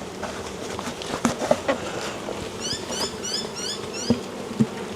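Beehive lid being set back in place: scattered light knocks and clicks over a steady hum of honeybees buzzing around the hive. About halfway through, a bird gives a quick run of short rising chirps.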